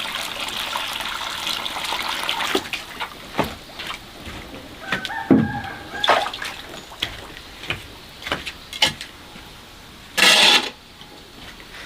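Water pouring or trickling, which stops about two and a half seconds in. Then come scattered knocks and taps, and one loud harsh noisy burst near the end.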